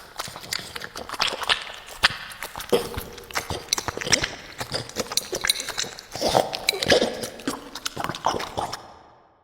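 Dog chewing and crunching food close to the microphone, a dense run of irregular bites and crunches that fades out near the end.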